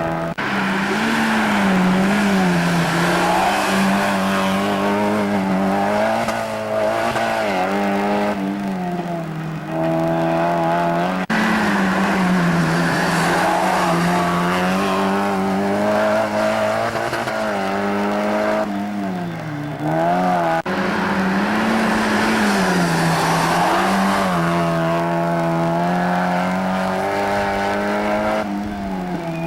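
Mazda MX-5 race car's four-cylinder engine running hard at racing speed, its note rising and falling as it accelerates, shifts and lifts off, with short dips about a third and two thirds of the way through.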